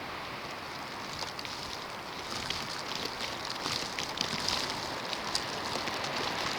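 Snowstorm wind blowing steadily, with a fine patter of blown snow grains ticking against a surface from about two seconds in, growing a little louder.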